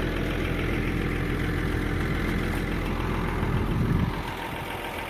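An engine idling steadily with a low hum, which rises slightly then drops away about four seconds in.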